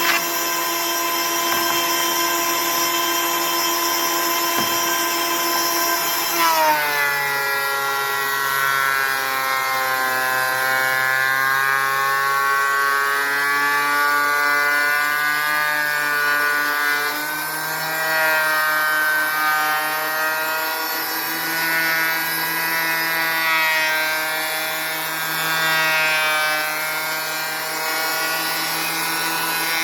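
Electric woodworking machine running free, then slowing and labouring when lumber is fed into it about six and a half seconds in. Its pitch stays lower and wavers up and down while it works through the board.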